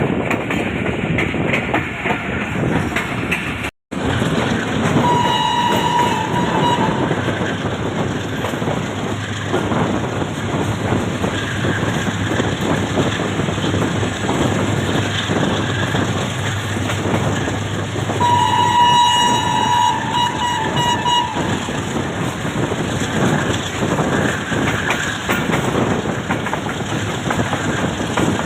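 Express passenger train running at speed, its wheels rumbling and clattering on the rails, with two blasts of the locomotive's horn: a short one about five seconds in and a longer one of about three seconds later on.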